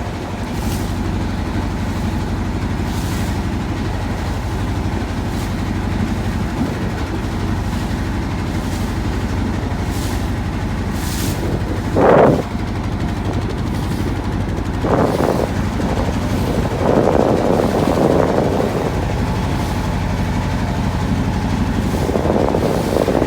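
A motor engine running steadily, a low drone throughout, with a brief loud sound about twelve seconds in.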